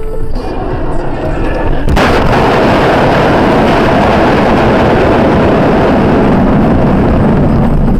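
Vehicle collision: a sudden loud bang about two seconds in, followed by several seconds of loud, continuous rumbling noise that cuts off abruptly near the end.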